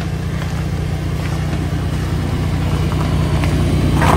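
Car engine idling: a steady low rumble that grows slightly louder near the end.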